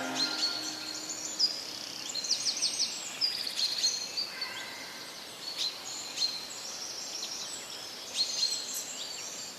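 Small songbirds chirping and trilling, a scatter of short high calls over a faint steady hiss.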